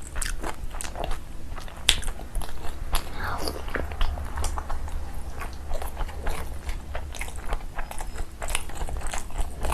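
Close-miked eating sounds: a person biting and chewing food, with many quick, irregular wet clicks and crunches from the mouth.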